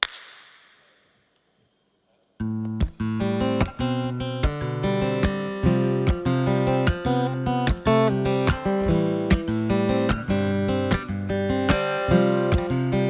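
A short sharp noise at the very start fades away, followed by a moment of near silence; about two and a half seconds in, an acoustic guitar starts strumming the song's instrumental intro in a steady rhythm.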